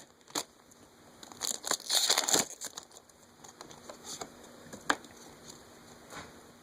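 Foil Pokémon booster pack wrapper crinkling as it is opened, loudest between about one and two and a half seconds in, followed by a few soft clicks as the cards are handled.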